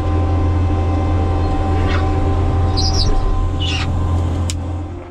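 Kubota compact track loader's diesel engine running steadily under load, fading near the end. A few short high chirps sound about three seconds in.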